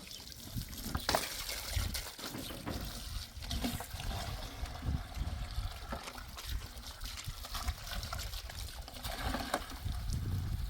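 Water trickling and splashing, with a few scattered knocks.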